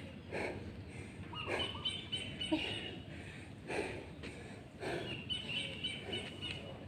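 Birds chirping in the surrounding trees, with a soft, low sound repeating about once a second under them.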